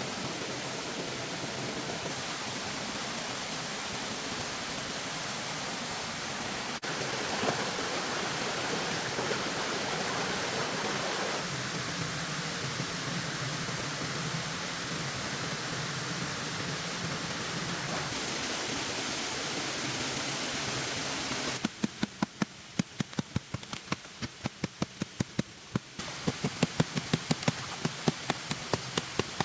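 Steady rushing noise like rain or running water. About three-quarters of the way in, a run of rapid, even knocks begins, about four a second.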